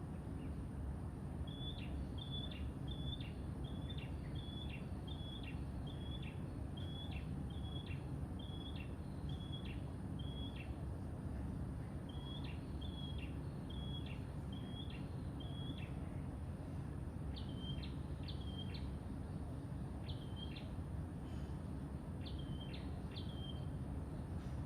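A bird calling, one short high note repeated about twice a second in two long runs, then in pairs near the end, over a steady low rumble of background noise.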